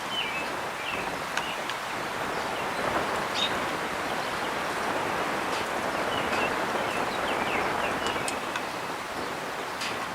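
Breeze rushing through the branches of an old tree windbreak, swelling in the middle and easing near the end, with small birds chirping in short, scattered calls throughout.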